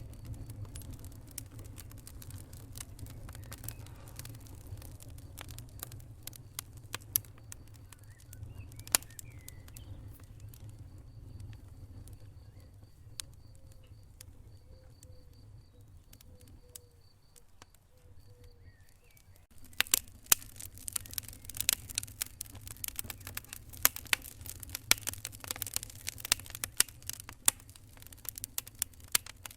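Wood fire crackling in a fireplace: a low, steady rumble of flames with sharp pops and snaps scattered through. About two-thirds of the way in, the crackling becomes much denser and louder.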